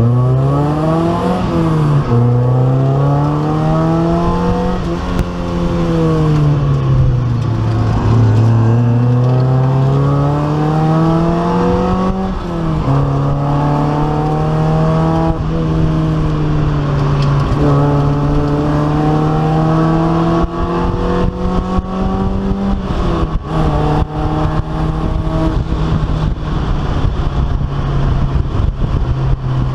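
Race car engine heard from inside the stripped, caged cabin, revving up through the gears: the pitch climbs and drops sharply at each upshift, sinks for a few seconds, then holds fairly steady. Sharp clicks and rattles come through in the second half.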